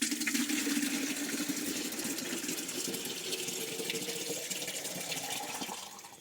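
Water pouring into a container, starting suddenly and running steadily before tailing off near the end, its note rising as the container fills.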